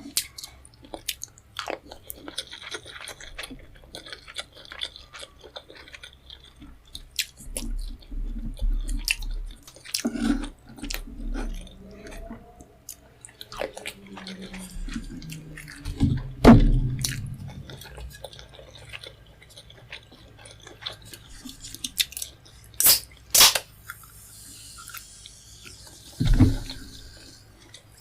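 Close-miked chewing of food: rapid wet smacks and small sharp clicks from the mouth, with a few louder thumps. Two loud, sharp clicks come about three-quarters of the way through.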